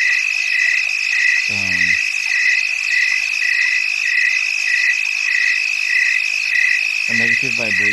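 Frog chorus: a steady high trill with one call pulsing evenly about twice a second.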